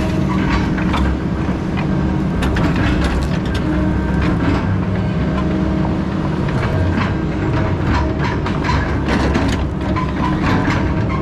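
Heavy logging machine running steadily, with many irregular metallic clanks and rattles from its moving parts.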